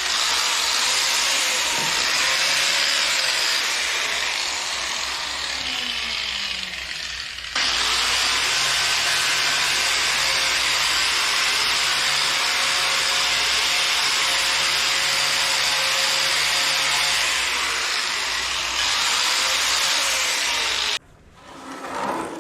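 Power tool with a wire wheel scrubbing rust and paint off a tractor front weight: a steady grinding rasp whose pitch sags and recovers as the wheel is pressed into the metal. It cuts off abruptly near the end.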